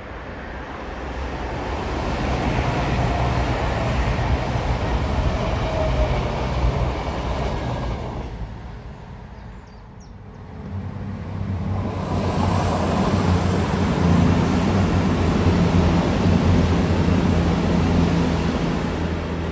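Two diesel passenger trains passing one after the other, with a short lull about halfway through. The second has a steady engine drone and a thin high whine over it.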